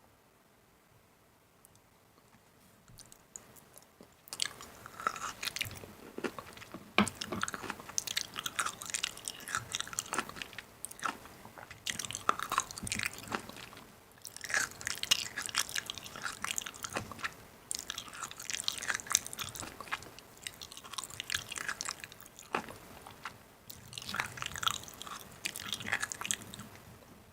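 A person chewing crunchy food close to the microphone, with crackling bites in bouts and short pauses between them, starting about four seconds in.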